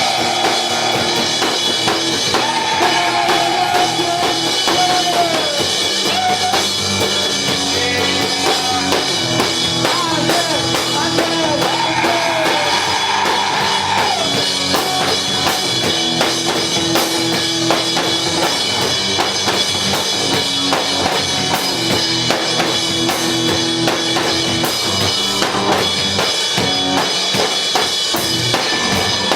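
Live garage rock band playing loudly: drum kit, bass and electric guitar, with a high lead line sliding and wavering in pitch through the first half.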